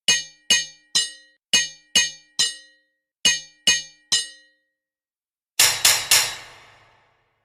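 Hammer striking an anvil in groups of three even, ringing blows, four groups in all; the last three come quicker and ring on for about a second.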